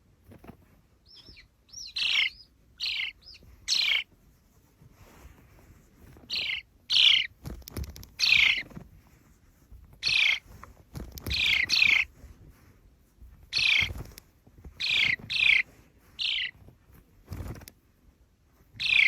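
Sparrow chirping: a series of short, separate chirps, each dropping quickly in pitch, repeated at uneven intervals with a short pause a few seconds in.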